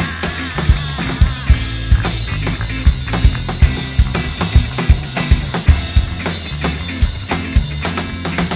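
A live band playing an instrumental passage without vocals: a drum kit with a steady kick drum beat about twice a second over bass and other instruments.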